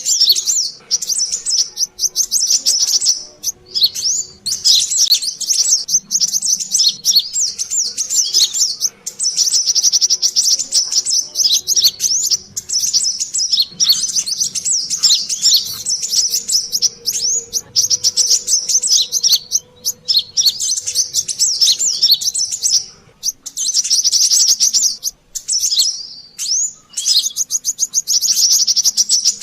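Brown-throated sunbirds (kolibri kelapa) twittering busily in fast, high chirping runs with brief pauses: a noisy sunbird lure call used for trapping.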